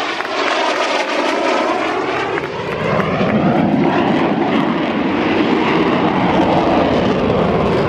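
Aircraft flying past, its engine noise rising and sweeping in pitch, swelling louder about three seconds in and staying loud.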